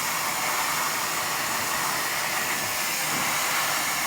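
Hand-held hair dryer running steadily on its hottest heat setting, a constant rush of blown air.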